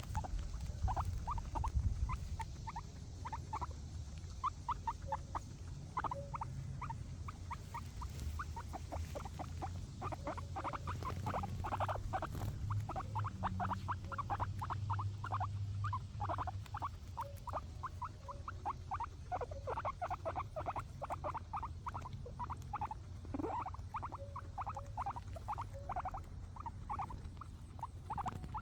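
Guinea pigs chewing grass: a fast, continuous run of small crisp bites, several a second, over a low steady rumble.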